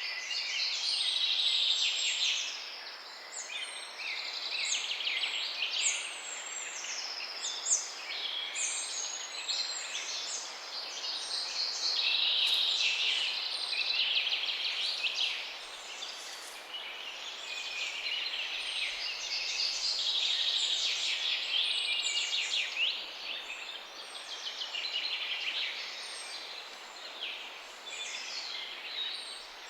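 A chorus of many small songbirds chirping and trilling at once, calls overlapping continuously without a break.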